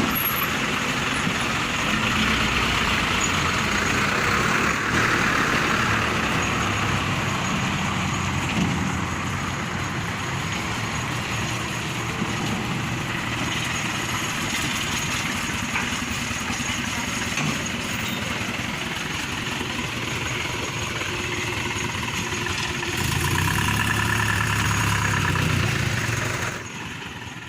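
Large trucks' diesel engines running as the trucks pull out of a parking lot, with a louder passage near the end before the sound fades away.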